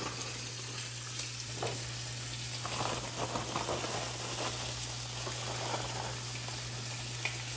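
Green beans just dropped into hot olive oil, sizzling with scattered crackles, mixed with pork chops searing on a grill pan beside them.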